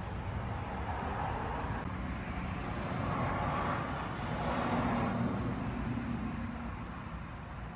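A car driving past, its tyre and engine noise swelling to a peak about five seconds in and then fading, over a steady low rumble of traffic.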